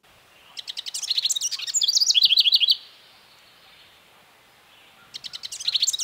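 House wren singing its trilly, many-parted song twice. Each song lasts about two seconds: a fast run of high notes that ends in a string of lower warbled notes.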